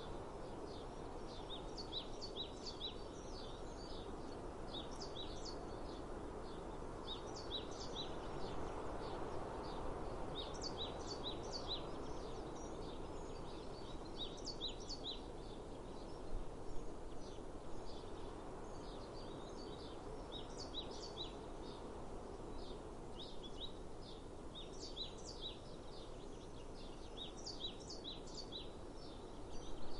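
Birds chirping in quick runs of high notes, a run every second or two, over a steady outdoor hiss.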